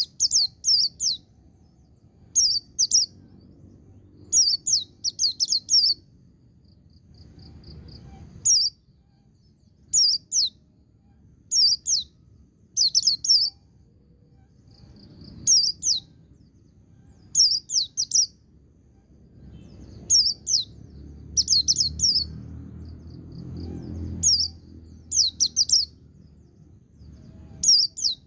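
A white-eye (pleci) singing in quick clusters of short, high-pitched notes, a burst every second or two, in the run-on 'ngecir' style. A faint low rumble lies underneath and grows louder for a few seconds near the end.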